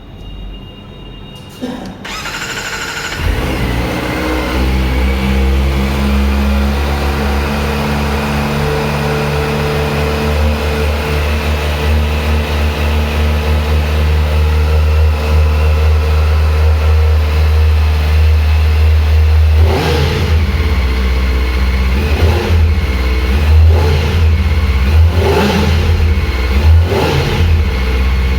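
Kawasaki Ninja ZX-4R's 399 cc inline-four engine starting about two seconds in and settling into a steady idle, then revved in several short throttle blips over the last eight seconds.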